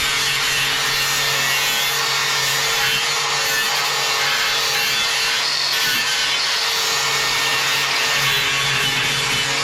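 Handheld electric power tool running steadily under load on steel: a constant motor hum under a rough, even hiss of the tool working the metal.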